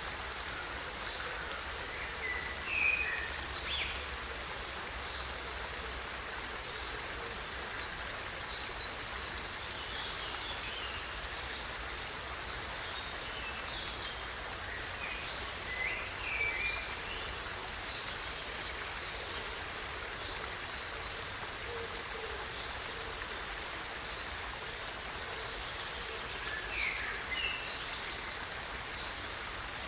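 Steady rushing of running water, with short bird chirps breaking through a few times: near the start, around the middle and near the end.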